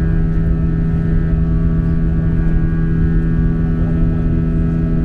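Airbus A321 jet engines droning steadily in flight, heard inside the passenger cabin as a loud, even roar with a constant low hum.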